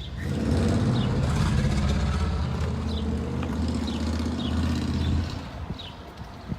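A motor starts up and runs steadily for about five seconds, then stops fairly suddenly.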